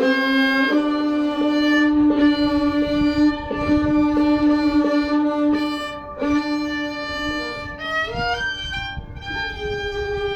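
A bowed string instrument playing a slow melody of long held notes, moving up to a higher held note near the end.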